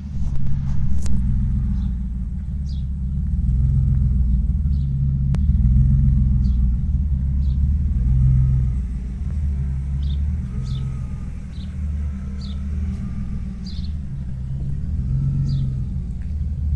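BMW E36 325i's M50B25 2.5-litre straight-six running steadily through its original exhaust, a low rumble that swells and eases slightly without revving up.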